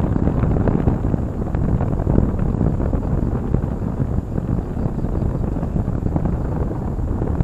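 Wind buffeting the microphone: a loud, steady, low rumble that swells and dips unevenly.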